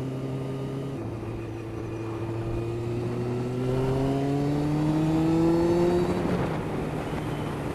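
Motorcycle engine pulling hard under acceleration, heard from inside the rider's helmet. Its pitch drops briefly at a gear change about a second in, climbs steadily for about five seconds, then falls back at another gear change near the end.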